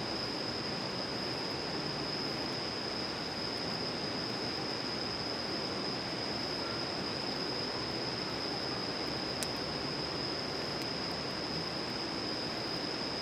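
Steady outdoor rushing noise with a continuous high-pitched whine over it, and one faint click about nine seconds in.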